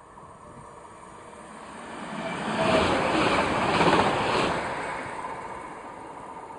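Northern Rail electric multiple unit running through the station at speed without stopping: its rush of wheels and air builds from about two seconds in, is loudest as it passes, then fades away.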